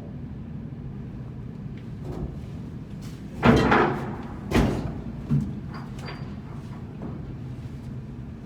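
Three heavy knocks and clatters, the first and loudest about three and a half seconds in, over a steady low machinery hum.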